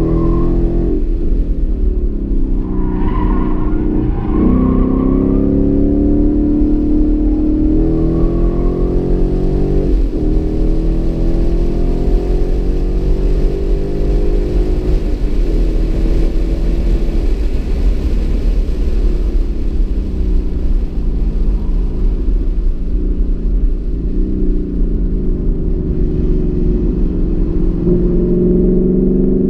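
2015 Mustang GT's 5.0 L V8 under hard track driving, heard from inside the cabin. The engine note climbs as it accelerates, drops sharply at gear changes about four and ten seconds in, eases off through the later middle, then climbs again near the end, over a steady low rumble of road and wind noise.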